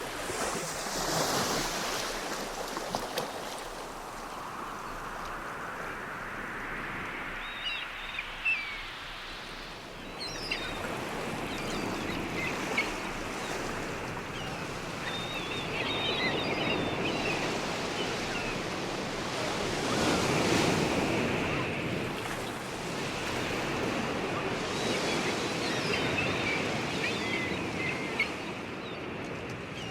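Ocean surf, waves washing in and swelling then falling away every few seconds, with high bird cries over the water.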